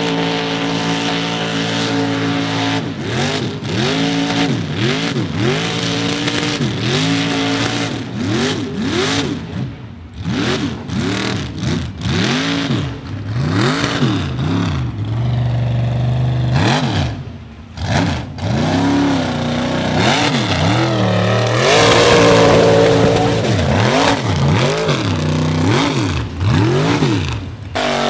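Mud truck engine held at a steady pitch, then revved up and down over and over, about once a second. About two-thirds of the way through it gets louder, with a rush of noise over the engine.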